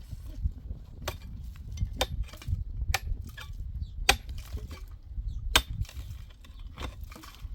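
A series of sharp knocks or clicks at irregular spacing, roughly one a second, over a low steady rumble.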